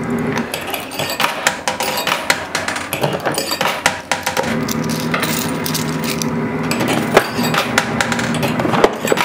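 Quarters clinking and clattering in a coin pusher machine: many sharp metallic clicks, with a steady low hum in the background during the second half.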